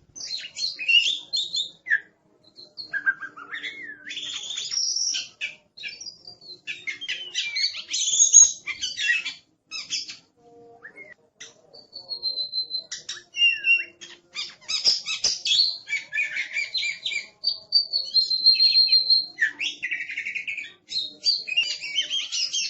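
Oriental magpie-robin (kacer) singing a fast, varied, noisy song of whistles, chatters and rapid notes, with a brief lull about halfway through.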